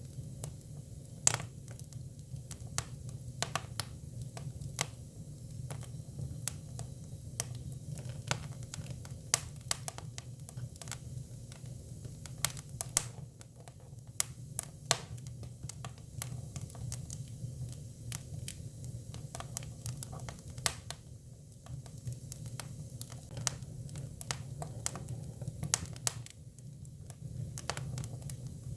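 Hinoki cypress firewood burning, crackling with irregular sharp pops and snaps over a low steady rumble.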